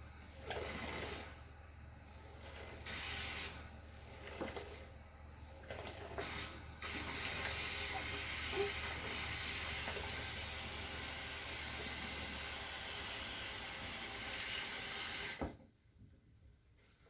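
Water running from a tap: a few short spurts, then a steady flow for about eight seconds that is shut off abruptly.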